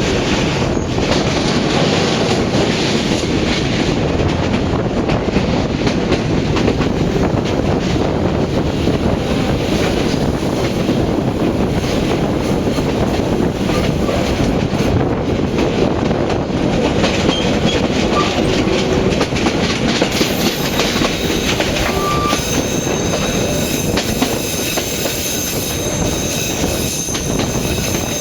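Passenger train running along the rails: a steady, loud rumble of wheels and carriages, with a brief high squeal about 22 seconds in.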